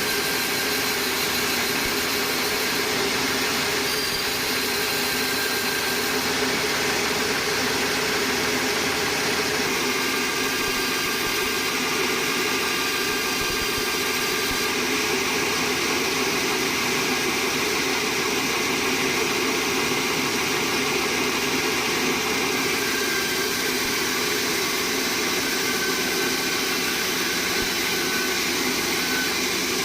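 Sawmill machinery running steadily: a constant mechanical hum and noise with a few faint steady tones.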